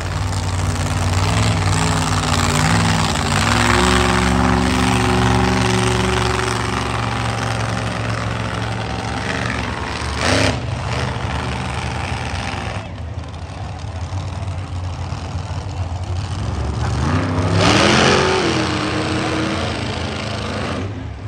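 Monster truck engine running and revving, with a sharp crack about ten seconds in and a rising rev near the end.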